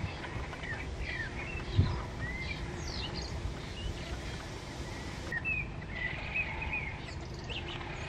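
Small birds chirping and singing in short, varied notes over a steady background hiss, with one low thump just under two seconds in.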